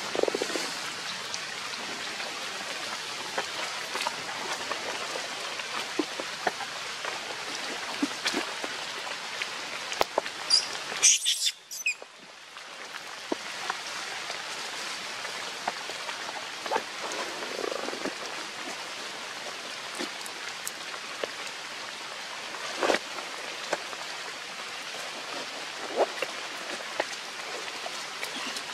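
Steady rain falling on wet ground, with scattered drips and taps. The rain sound briefly drops out just before the middle.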